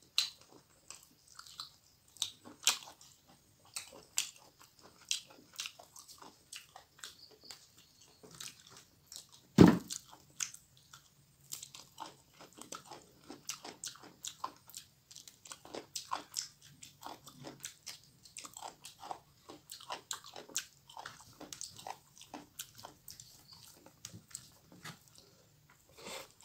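Close-miked eating: a person chewing and crunching mouthfuls of spicy pork dry fry, rice and fresh mizen leaves eaten by hand, with many short wet mouth clicks and smacks. One much louder knock about ten seconds in.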